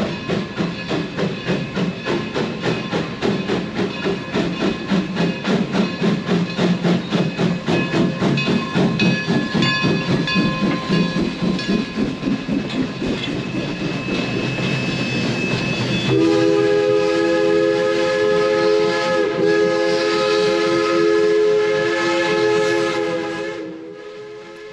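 Narrow-gauge steam locomotive pulling a train out, its exhaust chuffing in a steady beat of about two to three puffs a second. About two-thirds of the way in, its chime whistle sounds one long blast of several notes at once, held for about seven seconds before it fades.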